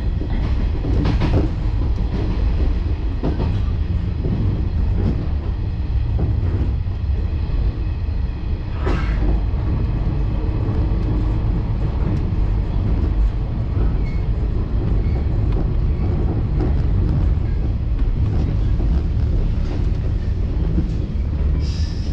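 JR 113-series electric train running, heard from just behind the driver's cab. A steady rumble of wheels on rail is broken by a few sharp clicks, and there is a brief higher-pitched hiss near the end.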